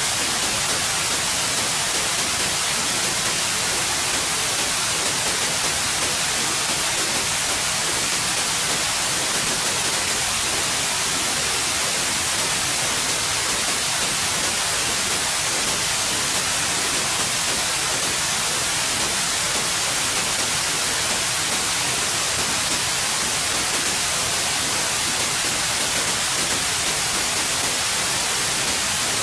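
Steady white noise: an even, unbroken hiss, strongest in the high frequencies, with no changes.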